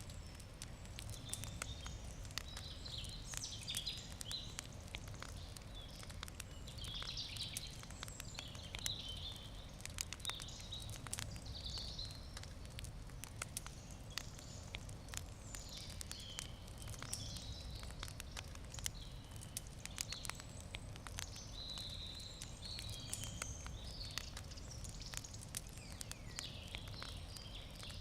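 Wood campfire crackling with frequent sharp pops and snaps, while birds chirp and sing steadily in the background.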